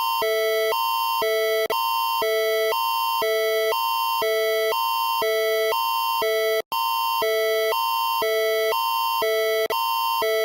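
Canadian Alerting Attention Signal (Alert Ready tone): a high chord near 1 kHz alternating every half second with a lower two-note chord, repeating steadily, with a momentary break about two-thirds of the way through. It is the attention tone that comes before a broadcast emergency alert.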